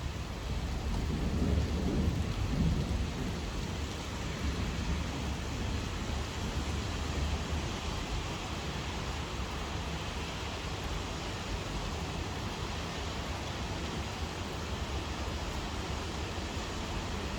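Steady heavy rain with a low rumble of thunder swelling and fading in the first few seconds.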